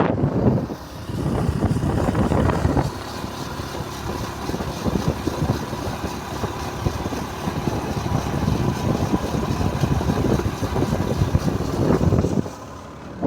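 Vehicle engine running with road and wind noise, briefly dropping in level about a second in and again near the end.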